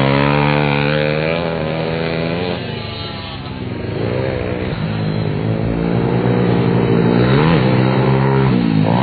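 Pit bike engine revving hard on a track, easing off about three seconds in, then climbing in pitch again several times as it accelerates.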